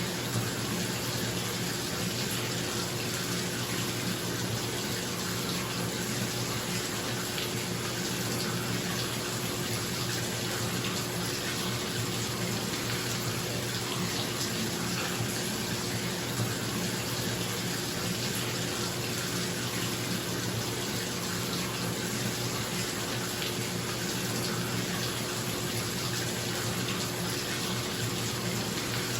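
Bathtub faucet running steadily into the tub, an even rushing and splashing of water, over the steady hum of a bathroom exhaust fan.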